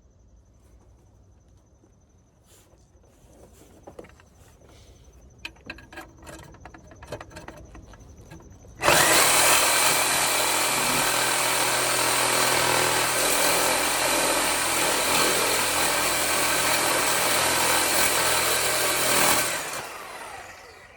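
A few light clicks and knocks, then about nine seconds in a reciprocating saw (Sawzall) starts abruptly and cuts steadily through the steel exhaust flange connector for about ten seconds before winding down near the end.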